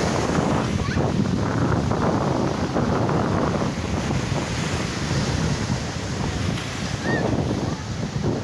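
Wind buffeting the microphone: a steady, irregularly gusting rush of noise, with a brief high chirp about seven seconds in.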